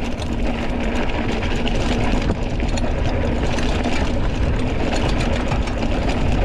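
Wind rumbling over the camera microphone and knobby mountain bike tyres running fast over the trail, with a steady hum and rapid rattling clicks from the bike.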